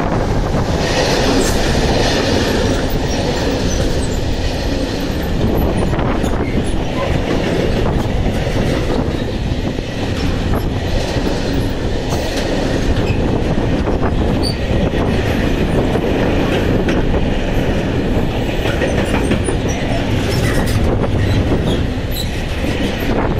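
Freight train of covered wagons behind a Siemens Vectron electric locomotive rolling past at close range: a steady loud rumble with wheels clattering over rail joints and a few brief high squeaks from the wheels.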